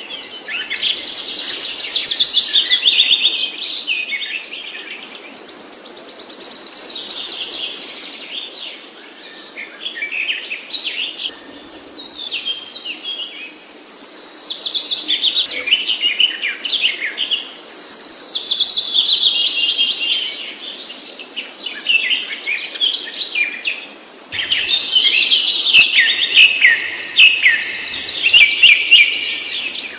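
Songbird singing in long, rapid, varied phrases of a few seconds each, high-pitched trills and chirps separated by short pauses.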